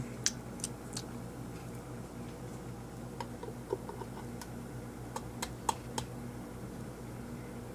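Scattered light clicks and taps, a few in the first second and a cluster in the middle, some with a brief ringing tone, over a steady low hum.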